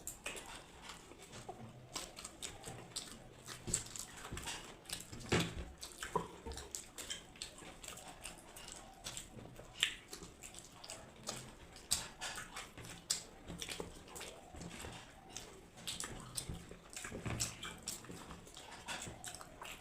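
Close-up eating noises of people racing through egg biryani: wet chewing and mouth smacks with irregular sharp clicks and taps.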